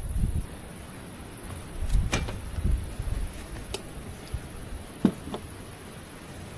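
A few light knocks and low rumbling handling noises over a steady high-pitched hiss or insect-like whine.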